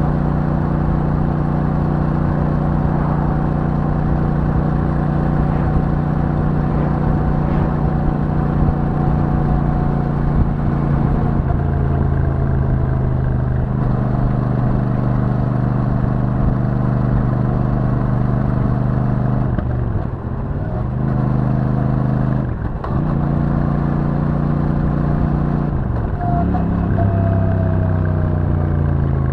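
Royal Enfield Super Meteor 650's 648 cc parallel-twin engine running steadily through its stock exhaust while riding. Three quick drops and recoveries in revs about two-thirds of the way through are gear changes under acceleration, and the engine note climbs steadily near the end.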